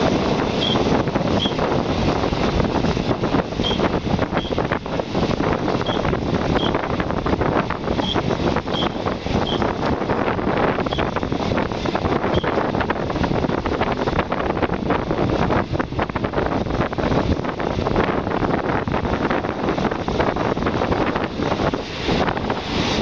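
Passenger train running on the rails, a steady rumble and clatter heard through an open carriage window with wind buffeting the microphone. A few short high squeaks recur in the first half.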